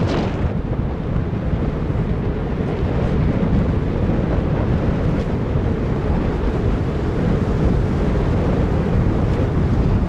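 Wind buffeting a helmet-mounted camcorder's microphone while riding a mountain bike: a steady, heavy rumble with a brief hiss right at the start and a few faint clicks.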